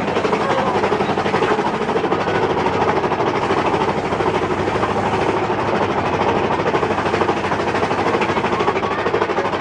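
Mine-train roller coaster cars rattling steadily along the track, a fast continuous clatter.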